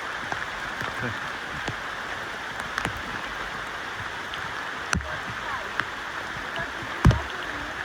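Steady outdoor hiss of rainforest ambience, with a few sharp knocks; the loudest knock comes about seven seconds in.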